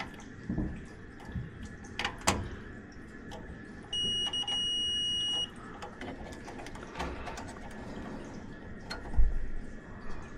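A steady high-pitched electronic beep lasting about a second and a half, with a short break just after it starts, among clicks and knocks of tools and parts being handled.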